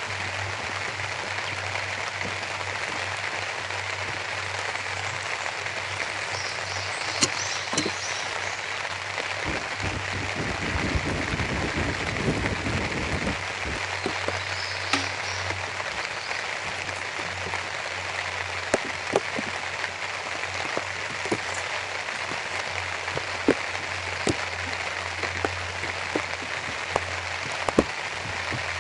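Steady rain falling, with scattered sharper drops ticking close by. A low rumble comes and goes about ten to fourteen seconds in.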